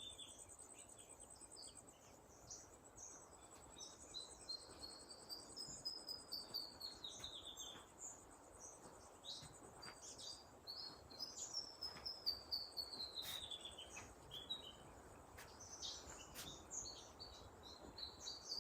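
Faint wild birdsong: repeated whistled notes that sweep down in pitch, mixed with short scattered chirps, over a steady thin high-pitched whine.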